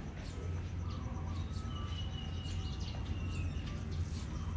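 Outdoor ambience: small birds chirping, with one long thin whistle in the middle, over a steady low hum.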